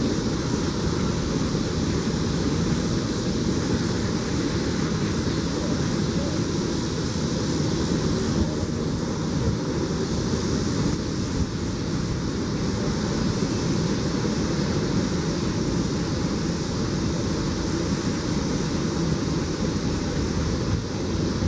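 Steady rumble and wheel-on-rail noise of a BNSF double-stack container train's cars rolling across a railway bridge. It is an even, unbroken noise with no horn or engine tone standing out.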